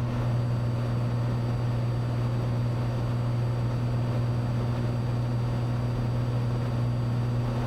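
Cessna 182's piston engine and propeller droning steadily in cruise, heard from inside the cabin as an even low hum.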